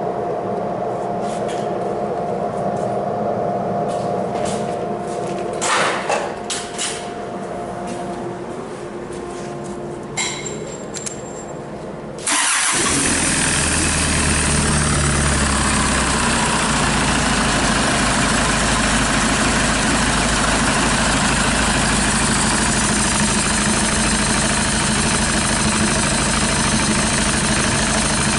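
Hyundai D4CB 2.5-litre four-cylinder diesel, run out of the vehicle for a test, starting suddenly about twelve seconds in and then running steadily. Before it starts there is a steady hum with a few clicks and knocks.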